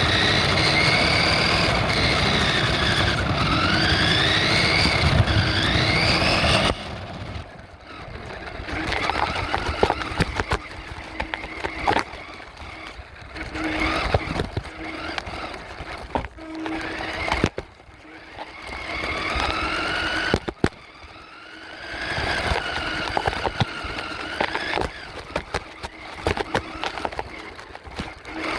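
RC truck's electric motor whining, its pitch rising and falling with the throttle, loudest in the first several seconds. Later it comes in shorter, quieter spurts with sharp clicks and knocks between them.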